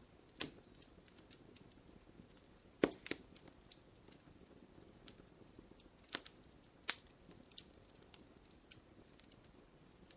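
Wood fire crackling in a fireplace: irregular sharp pops and snaps over a faint low hiss, the loudest snap about three seconds in.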